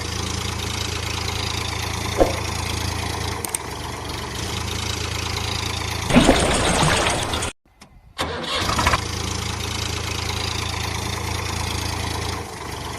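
Vehicle engine idling steadily, with a louder surge about six seconds in; the sound cuts out abruptly for under a second, then the idle picks up again.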